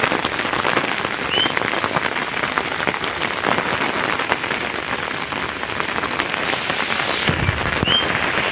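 Steady rain falling, with many separate drops striking close by. A low rumble comes in about seven seconds in.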